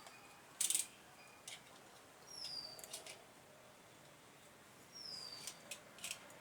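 A bird calling a short, high whistle that slides downward, repeated about every two and a half seconds, with several sharp clicks in between.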